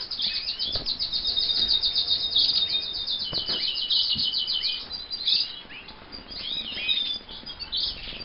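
Canaries singing in an aviary, among them roller canaries: a fast, even trill of repeated high notes for about three seconds, then shorter sweeping chirps and calls from several birds overlapping.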